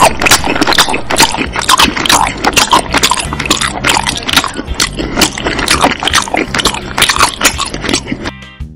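Close-miked chewing and wet lip-smacking while eating chewy Korean fish cake (odeng) from the broth: a rapid, uneven run of mouth clicks and smacks. Guitar music comes in near the end.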